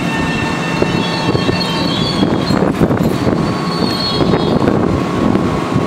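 Metro-North M7A electric multiple-unit train rolling slowly past and braking to a stop at the platform: a steady loud rumble of wheels on rail with light knocks and thin high-pitched squeals.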